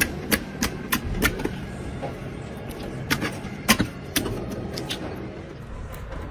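Slime being worked by hands: a string of sharp, irregular wet clicks and pops over a soft, continuous squishing rumble.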